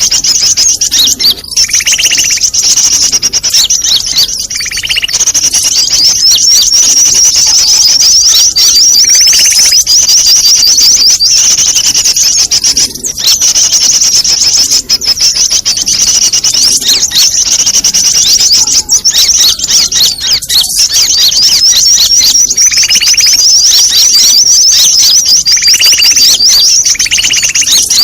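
Bird-lure recording of many small birds chattering at once: a dense, continuous, high-pitched twittering, with lower, rounder call notes repeating every few seconds.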